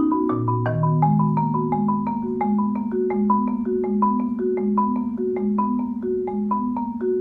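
Solo marimba played with mallets: a steady, repeating figure of quick struck notes over low held notes.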